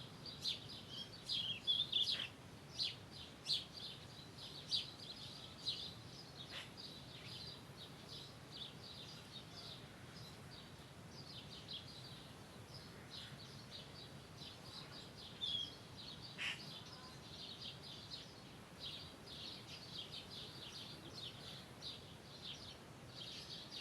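Birds chirping: many short, high chirps overlapping, busiest and loudest in the first few seconds and again near the end. A faint steady low background noise runs under them.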